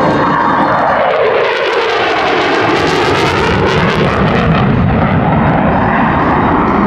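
Airplane making a low pass, a loud steady roar whose tone sweeps down and then back up as it goes by.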